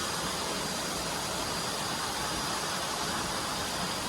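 A steady, unbroken rushing hiss.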